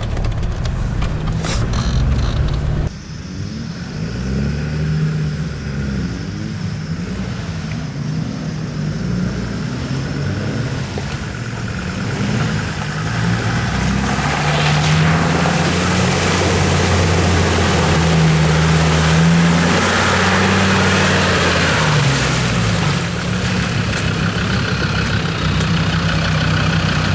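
Off-road 4x4's engine working over rough ground, its revs rising and falling again and again as the driver feeds the throttle, loudest in the middle.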